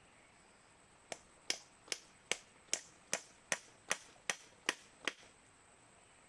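A hand tool striking repeatedly: about eleven sharp, evenly paced blows over four seconds, starting about a second in.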